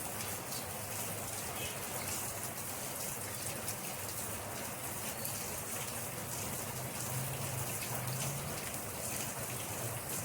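Steady rain falling, a continuous even hiss with many fine drop ticks.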